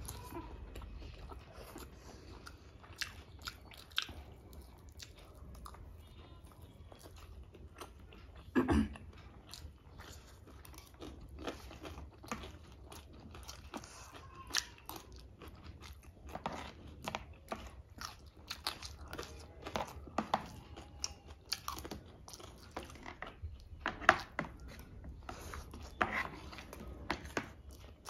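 Close-miked eating sounds: wet chewing of noodles and meat, with frequent sharp clicks of forks and spoons on ceramic plates. A louder short sound stands out about nine seconds in.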